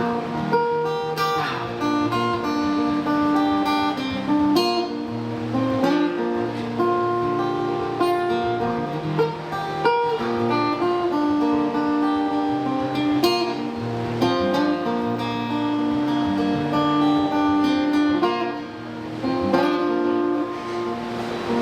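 Acoustic guitar strummed in an instrumental break of a song, chords held with regular strokes and no singing.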